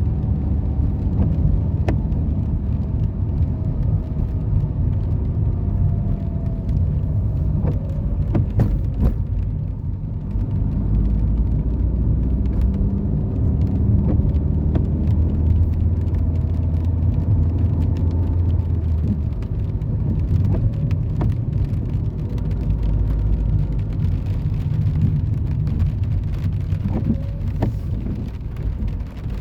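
Road traffic: car engines and tyres making a steady low rumble, with faint engine tones rising and falling and a few brief clicks.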